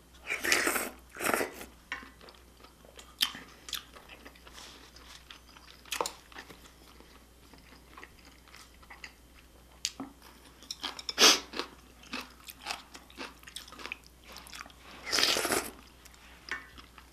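Close-miked eating of spicy beef soup with rice: chewing with irregular small clicks, and a few louder short noisy bursts, the loudest about fifteen seconds in.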